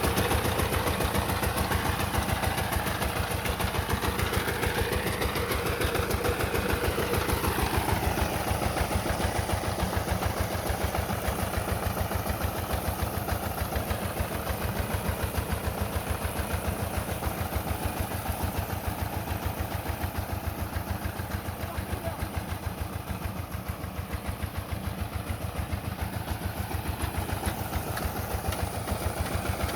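Diesel engine, likely a power tiller's, catching right at the start and then running steadily at idle with an even, rapid beat. A faint whine rises and falls a few seconds in.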